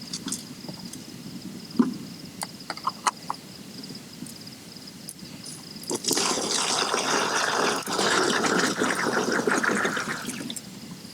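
Crickets chirping in one steady high tone, with scattered clicks and snaps; about six seconds in, a loud hissing rush starts and runs for about four seconds before cutting off.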